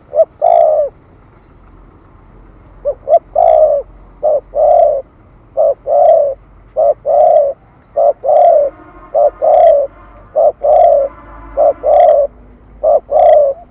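Spotted dove cooing over and over. Each phrase is a couple of short clipped notes followed by longer, low coos, in the 'thổ thúc gù' style of song.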